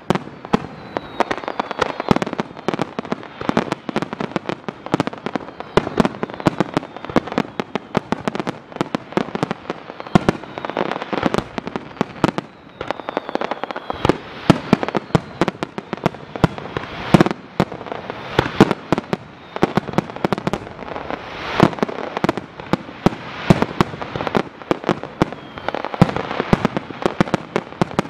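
Aerial fireworks bursting in a rapid, continuous barrage, several sharp bangs a second with no letup. A few whistles that fall in pitch sound through the bangs.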